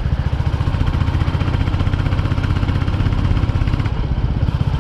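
Royal Enfield Classic 350's 349 cc single-cylinder engine running under way at steady revs, its exhaust beat an even, rapid series of pulses.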